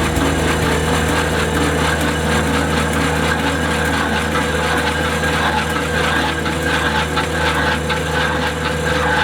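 Skid-steer loader's engine running steadily at an even pitch while it powers the hydraulic auger fitted with a stump planer.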